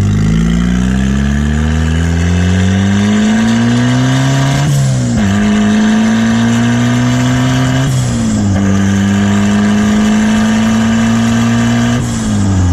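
Turbocharged Mazda Miata four-cylinder engine accelerating through the gears: the revs climb steadily, drop at an upshift about five seconds in, climb again, and drop at further upshifts about eight and twelve seconds in. Each shift brings a short rush of noise.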